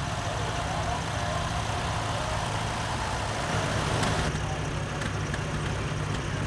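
Antique tractor engines running steadily at low revs, with a brief rise in loudness about four seconds in.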